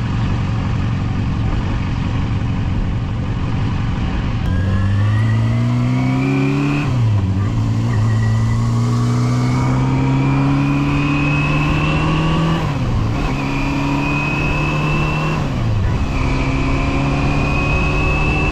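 Yamaha FZR250's inline-four engine, first running low and rough, then pulling away from about four seconds in. The revs climb in steps, dipping briefly at each of several upshifts as the motorcycle accelerates through the gears.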